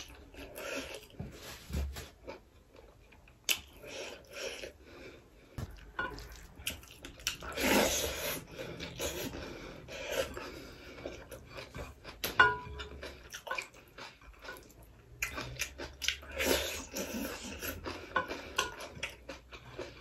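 Close chewing and mouth sounds of a person eating rice and greens by hand, with irregular soft smacks and a few sharp clicks as fingers gather food from the plate.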